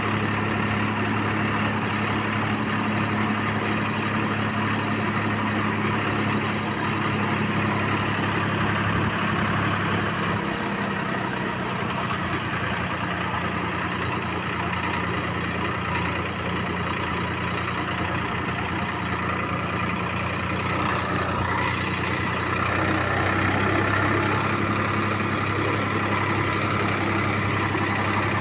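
Tractor's diesel engine running steadily under way, its pitch shifting slightly about ten seconds in and getting a little louder later on.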